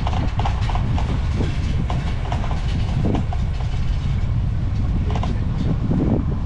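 Bicycle rattling and clicking as it rolls along, over a steady low rumble of tyre and wind noise.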